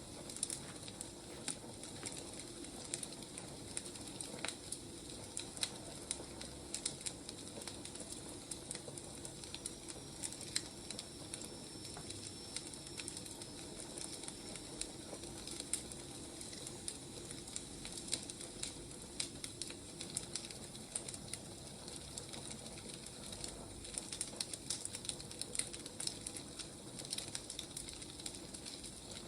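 Wood fire burning: irregular crackles and pops over a steady low hiss.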